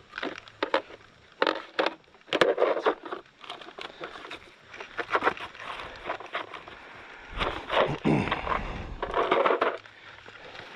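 Irregular clicks, knocks and short scrapes of hands working on a motorcycle's rear wheel and drive chain while the chain slack is checked, with a louder low rumbling stretch about three-quarters of the way through.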